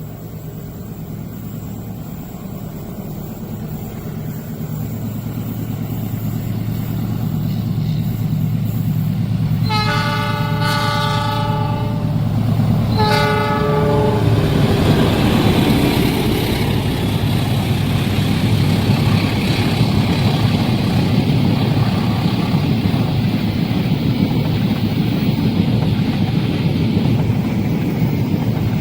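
A train approaches, growing louder, and its locomotive horn sounds two blasts: a longer one about ten seconds in and a shorter one about three seconds later. The train then passes close by with a loud, steady rumble.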